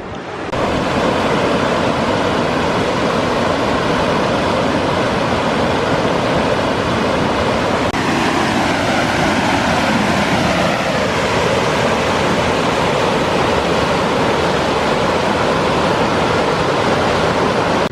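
Rushing river water: a loud, steady rush that swells up suddenly just after the start and then holds even.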